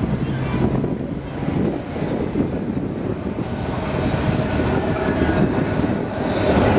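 Blackpool heritage tram running along the track, a steady rumble of wheels on rail that grows louder in the last few seconds.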